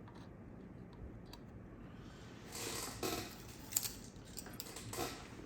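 Steady hum of an air-conditioning unit, then about two and a half seconds in a short spell of scraping and a few sharp clicks from small hand tools working on a circuit board.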